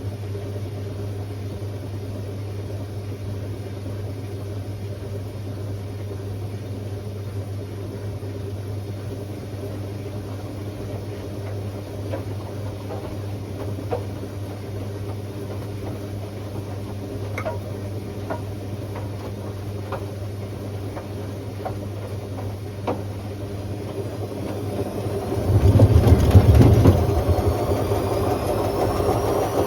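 Hotpoint Aquarius WMA50 washing machine running with a steady low motor hum and a few light clicks. About 25 seconds in comes a loud low rumble, then a rising motor whine as the drum speeds up into a spin.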